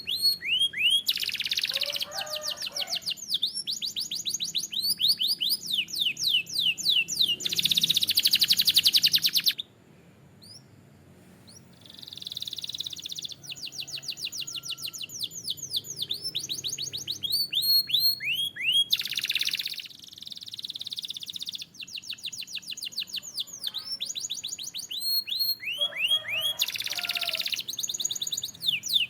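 Canary singing: fast trills of repeated downward-sweeping notes, switching between phrases and dense buzzy rolls. The song breaks off for about two seconds around ten seconds in, then resumes.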